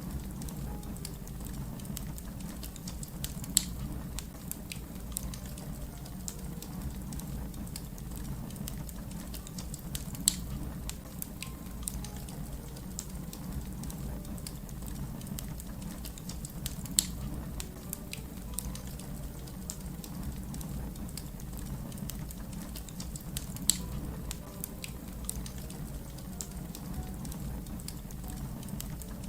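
Wood fire crackling, with many small clicks and four louder pops evenly spaced about seven seconds apart, over a low steady rumble.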